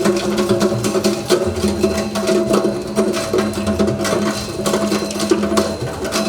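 Electric ice crusher machine running, its motor humming steadily while ice chunks clatter and crack through it, with music playing underneath.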